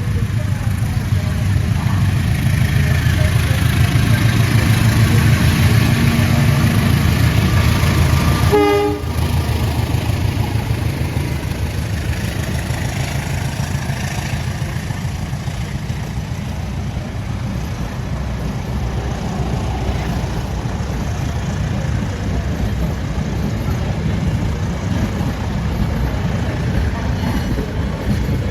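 Diesel-locomotive-hauled train running past with a steady, heavy low rumble. A brief horn toot sounds about nine seconds in.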